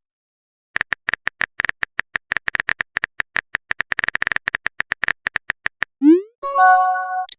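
Phone keyboard typing sound effect: rapid, irregular clicks for about five seconds. Near the end comes a short rising swoosh and a chiming message-notification tone.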